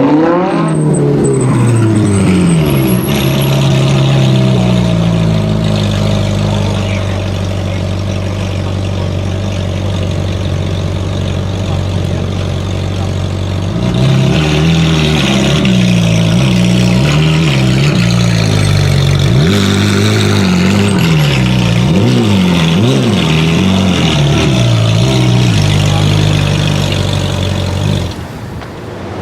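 Sports car engine running loud: its pitch falls away at first and then holds steady. About halfway through it is revved up and down over and over, then settles to a steady note and drops off near the end.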